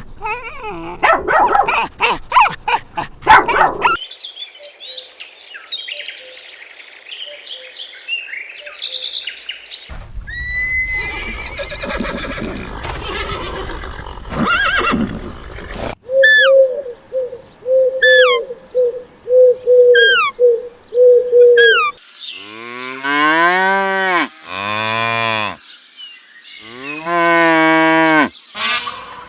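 A string of different animal calls, cut one after another. It ends with a cow mooing in about three long calls.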